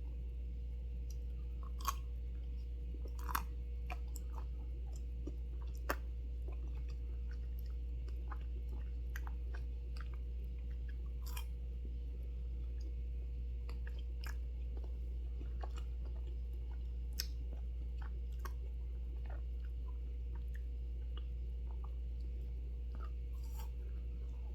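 Close-up chewing and biting of a frozen fruit ice pop: irregular small clicks and crunches, a few sharper ones about 2, 3.5, 6 and 17 seconds in, over a steady low hum.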